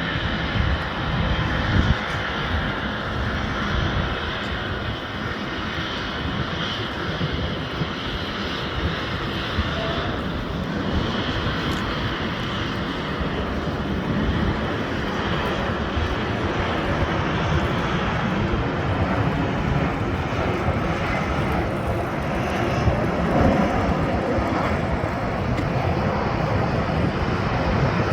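Aircraft engines running, a steady noise that holds about the same level throughout.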